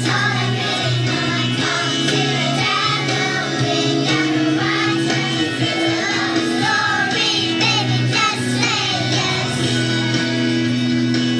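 Children's choir singing a pop song with instrumental accompaniment.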